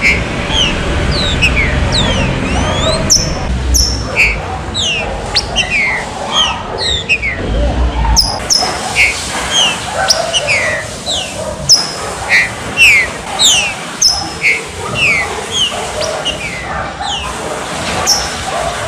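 Green-winged saltators (trinca-ferro) calling, a fast series of short, high, falling notes at several pitches, often overlapping. A low rumble sits under the first half and stops about 8 seconds in.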